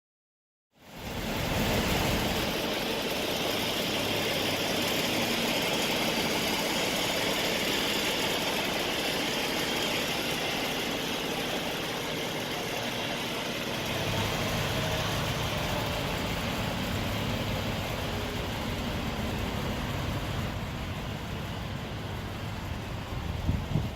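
Big rig's diesel engine running steadily under a constant rushing noise, cutting in suddenly after about a second of silence. A few knocks come near the end.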